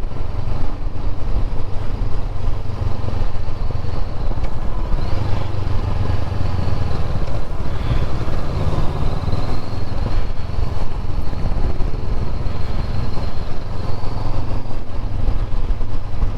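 Motorcycle engine running steadily on the move, heard from a camera on the riding bike, with wind and road noise.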